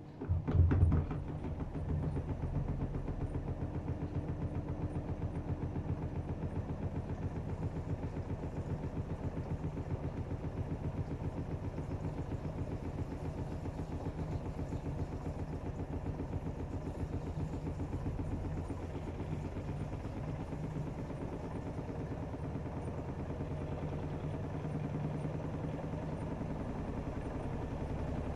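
AEG Öko Lavamat 76910 washing machine starting up suddenly about half a second in with a brief clatter, then running steadily with a low hum that pulses quickly and regularly.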